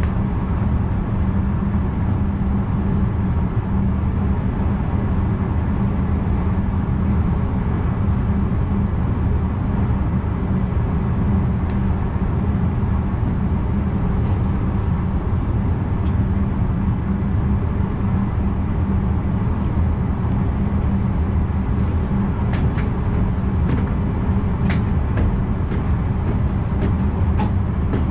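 Running noise of an NS VIRM electric double-deck train at speed, heard from the driver's cab: a steady deep rumble, with a scatter of sharp ticks in the last few seconds.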